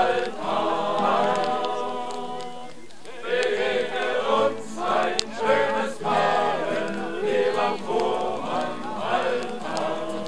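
A group of voices singing a song together in unison, phrase by phrase, with a short breath pause about three seconds in.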